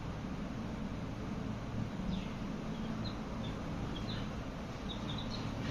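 Baby chicks peeping: short high chirps, scattered through the second half, over a steady low background hum.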